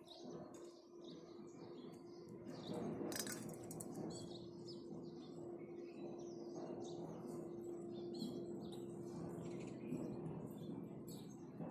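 House sparrows chirping: a busy, overlapping run of short calls over a steady low hum, with a brief rustle about three seconds in.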